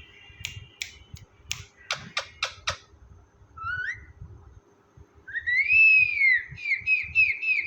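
Pet parrot calling: a run of about six sharp, clicking calls, a short rising chirp, then one long arched whistle followed by a quick string of short falling whistle notes.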